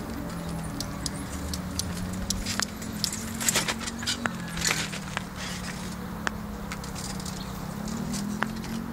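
Bonfire crackling and popping: irregular sharp snaps, thickest and loudest a few seconds in, over a steady low hum.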